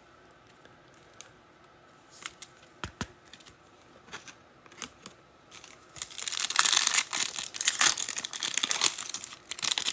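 Foil trading-card pack being handled and torn open, with a few light clicks and taps at first and then loud crinkling and tearing of the wrapper from about six seconds in.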